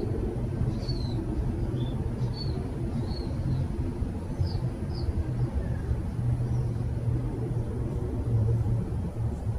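Steady low rumble, like distant traffic or wind, with faint short high chirps of small birds scattered over it, mostly in the first half and some dropping in pitch.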